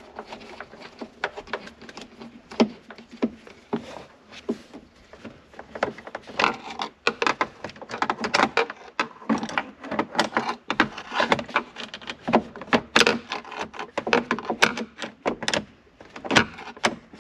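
Plastic dash trim being worked loose by hand: a fast, irregular run of clicks, knocks and rattles, growing busier about six seconds in.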